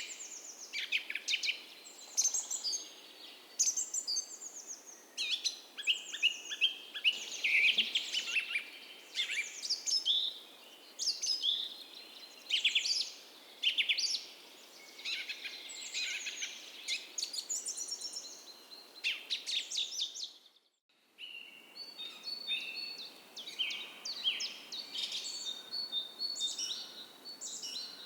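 Dawn chorus of several songbirds singing and calling over one another in quick chirps and trills, over a faint steady rush of a creek. About 21 s in, the sound drops out briefly almost to silence, then resumes with thinner, higher repeated notes.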